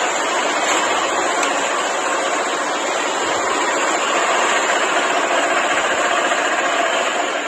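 Garden tractor engine running steadily, a loud, even mechanical noise with no change in speed.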